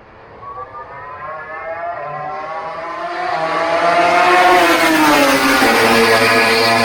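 MotoGP racing motorcycle engine approaching at speed, growing louder with its note climbing in pitch, then dropping sharply as it goes by a little past halfway. A loud, steady high engine note carries on after.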